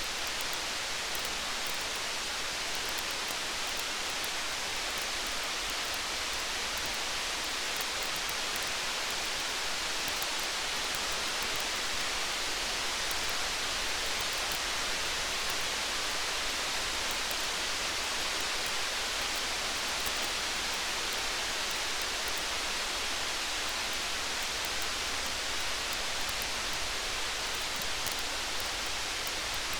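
Steady rain hiss with faint, scattered crackles of a campfire.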